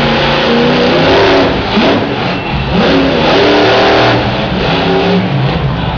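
Monster truck engine revving loudly, its pitch rising and falling again and again.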